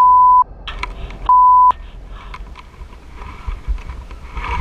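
Two loud censor bleeps, each a single steady tone about half a second long, one at the start and one about 1.3 s in, with road and vehicle noise and scattered clicks and knocks underneath.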